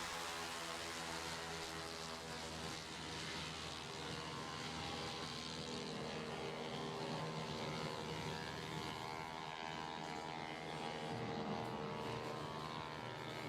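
Racing 160cc scooter engines running at high revs on the track, several engine tones overlapping and shifting in pitch as the bikes lap.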